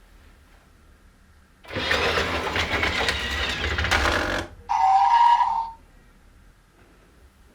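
Duplo toy train sounds: a loud rattling clatter for about three seconds, then a short, steady, pitched toot of about a second.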